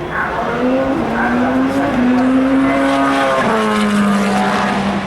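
A race car's engine passing by at speed: its note climbs, holds, then drops about three and a half seconds in.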